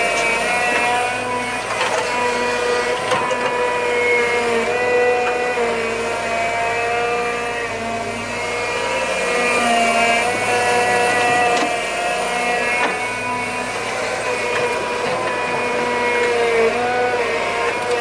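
A small engine running steadily, its pitch wavering slightly, with a few sharp knocks.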